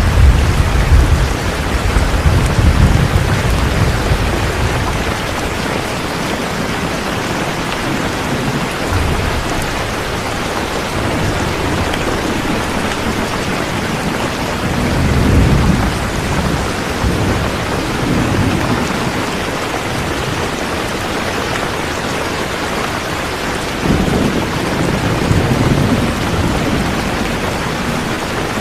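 Steady heavy rainfall with low rolls of thunder: one at the start, another about halfway through, and a third a few seconds before the end.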